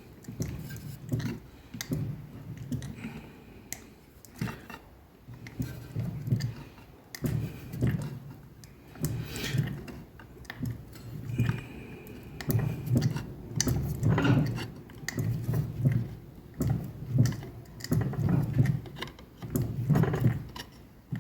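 Fly press bumping a cold 2 mm steel plate leaf between forming tools, giving a steady run of short metallic knocks and clinks, roughly one a second.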